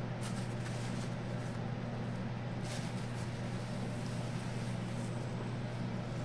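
Steady low machine hum, with a few faint clicks from handling parts.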